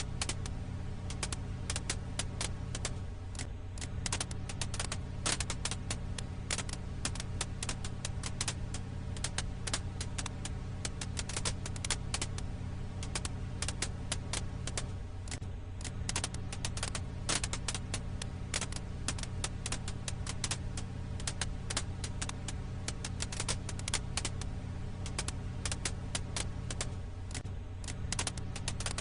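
Wood fire crackling, with many quick irregular pops and snaps over a steady low rumble.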